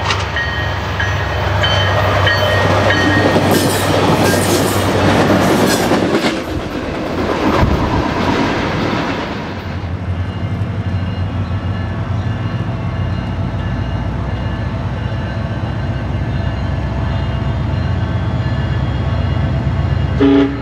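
A SunRail commuter train passing close by, its wheels clattering on the rails and the noise fading off. Then a second train's diesel engine hums steadily as it approaches, and its horn begins to sound near the end.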